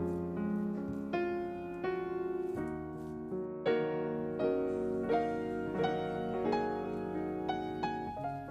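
Soft background piano music, single notes and chords struck about once or twice a second, each fading away.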